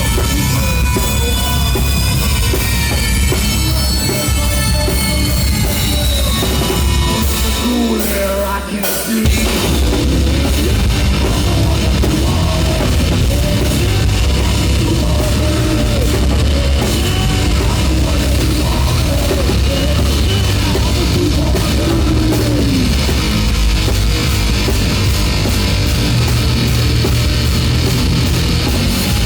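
Live heavy metal band playing loud, with drum kit, bass and guitars and a voice singing over them. The low end drops out briefly about eight seconds in before the full band comes back in.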